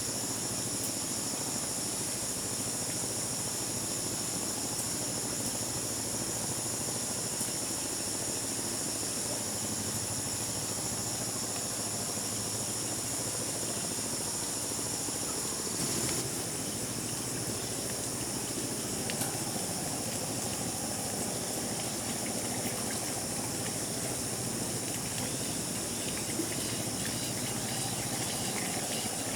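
Steady high-pitched insect drone over an even hiss, with a slight change about halfway through.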